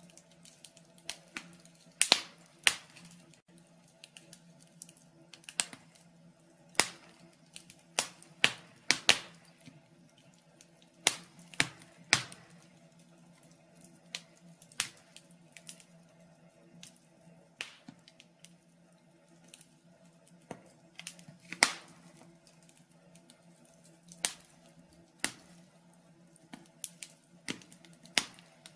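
Wood fire crackling in a fireplace: irregular sharp pops and snaps at uneven intervals over a faint steady low hum.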